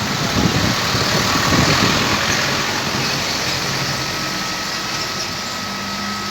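Heavy downpour driven by strong wind, a loud steady hiss of rain, with gusts buffeting the microphone in a low rumble during the first two seconds or so.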